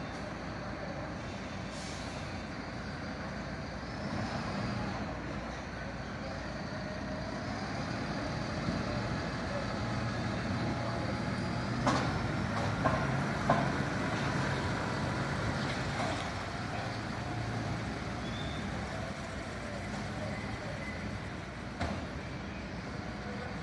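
A truck's engine running steadily amid traffic noise, with a few sharp clicks or knocks.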